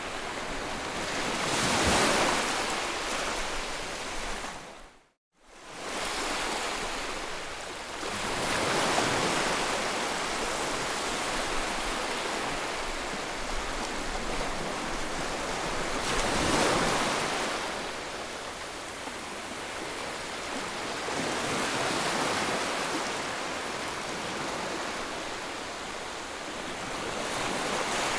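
Ocean waves breaking and washing on a shore, swelling and ebbing every six or seven seconds. The sound cuts out completely for a moment about five seconds in.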